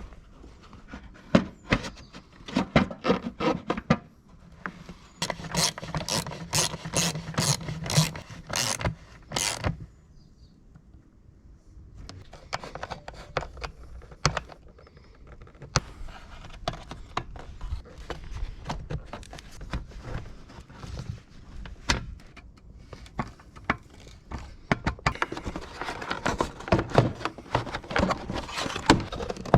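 Hand tools clicking and clanking on metal parts of a car during an oil and filter change. About five seconds in there is a run of quick, evenly spaced clicks, and around ten seconds in there is a short lull.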